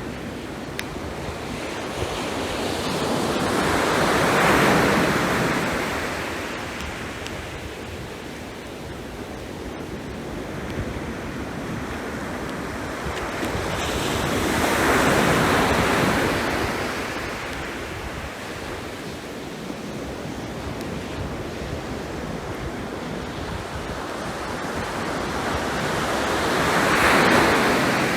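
Sea waves breaking on the shore over a steady wash of surf. Three waves swell up and fade away, about eleven seconds apart.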